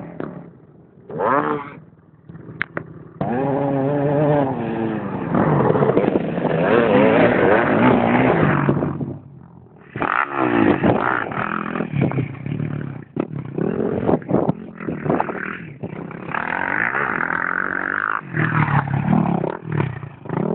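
Motocross bike engines revving, their pitch rising and falling rapidly as the throttles open and close. The engines are quieter in the first few seconds and drop away briefly about nine seconds in.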